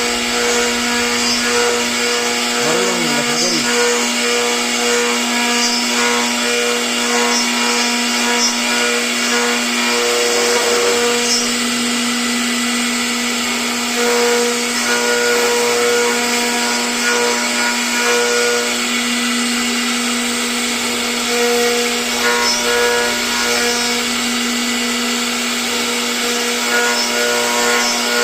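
CNC router spindle running steadily with a constant low whine, over an even rasping cutting noise as the bit carves.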